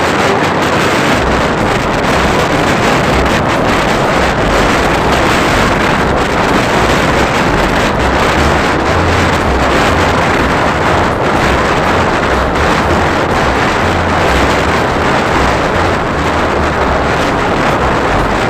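Steady, loud wind rushing over the microphone of a moving motorcycle, with an uneven low rumble underneath.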